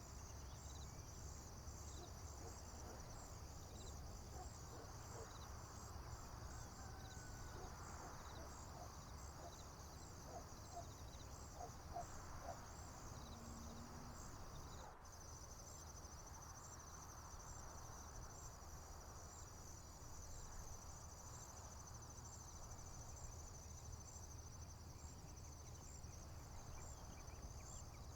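A steady high-pitched chorus of crickets trilling in a rural field, over a low steady rumble. A few faint bird chirps come through around the middle. About halfway through, the chorus changes abruptly and becomes more even.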